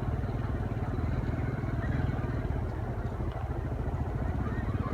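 Diesel-electric locomotive engine running steadily with a rapid, even throb.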